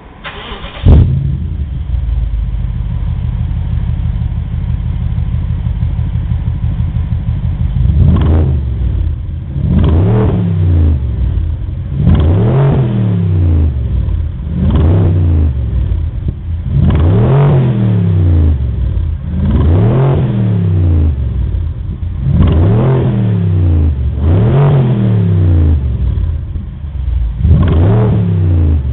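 BMW X6 V8 through a SIM aftermarket exhaust system with stock tailpipes: the engine starts with a loud flare about a second in and settles to idle. From about eight seconds it is revved in about nine short blips, each rising and falling in pitch.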